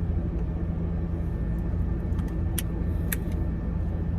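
Steady low background rumble, with two or three short clicks about two and a half to three seconds in.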